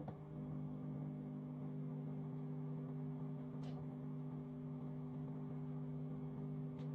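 Microwave oven running with a steady hum, with a faint tick about halfway through and another near the end.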